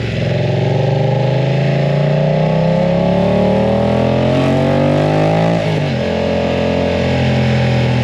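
BMW F900 R's parallel-twin engine through a full exhaust, pulling under acceleration with its pitch rising steadily for about five seconds, then dropping sharply and running on steadily at a lower pitch.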